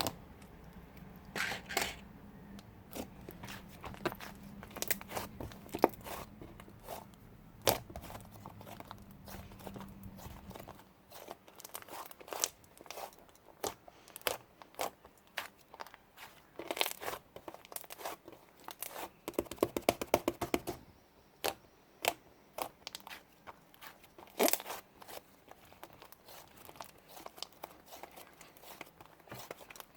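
Slime being pressed, poked and stretched by hand, giving sticky clicks, pops and tearing crackles, with a fast run of clicks about two-thirds of the way through. A low steady hum stops about a third of the way in.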